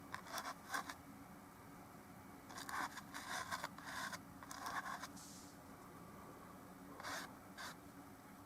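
Oil paintbrush scratching across the painting surface in short strokes, in three quick clusters with pauses between.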